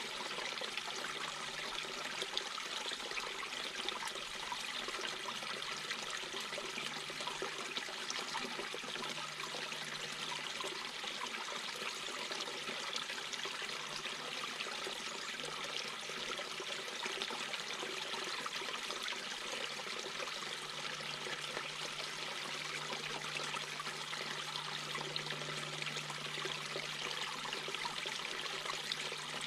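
Mountain brook babbling, a steady rush of water running over stones, with a faint low hum underneath.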